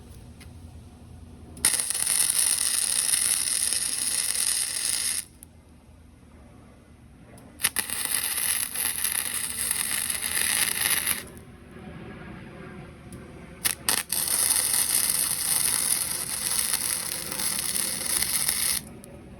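Electric arc welding: three separate welds of about three to five seconds each, each starting abruptly with a steady crackling hiss and cutting off sharply, the last preceded by a few quick clicks as the arc is struck.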